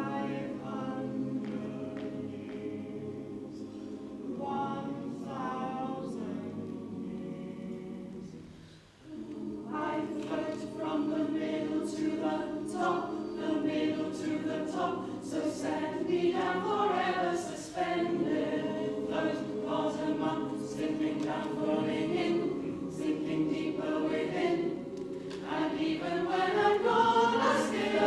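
Choir singing: a lighter, quieter passage for about the first nine seconds, then after a brief break the full choir comes in louder.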